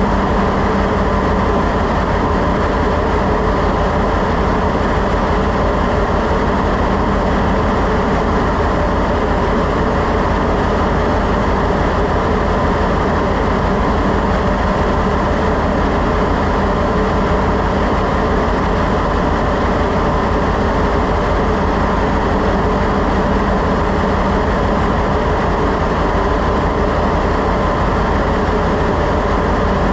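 Steady, loud drone of ship engine-room machinery running, an even din with a few constant hum tones through it.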